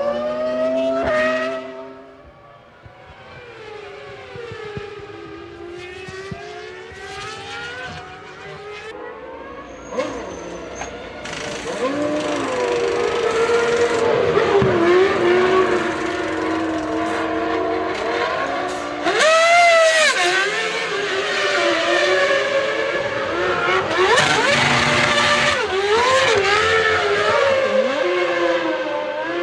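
Formula One cars racing at high revs, several engine notes rising and falling in pitch through gear changes and as the cars pass. The sound gets louder and busier about eleven seconds in, and one car passes loudest about two-thirds of the way through.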